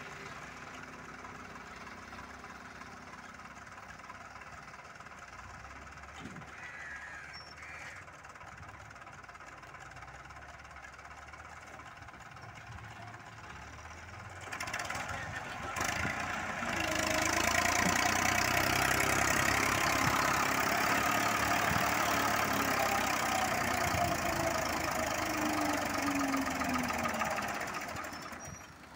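Engine of a 1985 model 240 tractor carrying about 3 tons of load, running steadily. About halfway through it grows much louder, with the pitch rising and falling as it works under the load.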